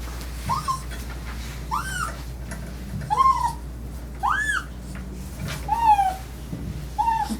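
Dog whining: about six short, high cries, each rising and then falling in pitch, a little over a second apart.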